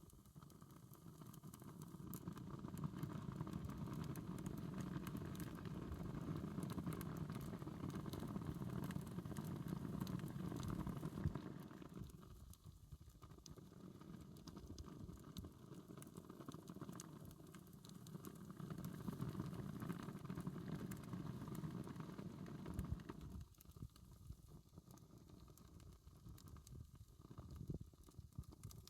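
Wood campfire burning: scattered small crackles and pops over a low rumbling noise that swells for several seconds at a time, easing off about halfway through and again near the end.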